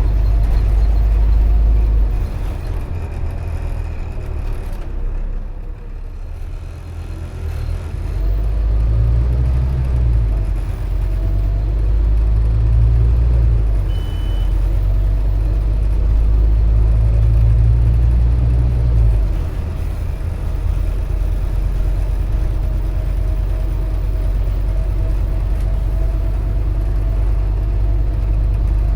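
Scania OmniCity N230UD double-decker bus's five-cylinder diesel engine heard from on board while the bus drives: the engine note drops back about five seconds in, then pulls up again in three surges as the bus accelerates, easing off about twenty seconds in. A short high beep sounds once about fourteen seconds in.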